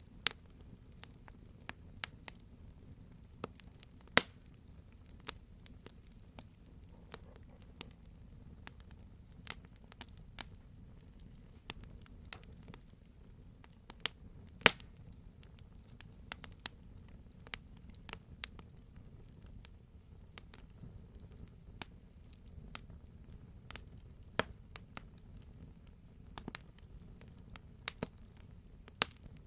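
Campfire crackling: irregular sharp pops and snaps of burning wood, a few much louder ones, over a low steady rumble of the fire.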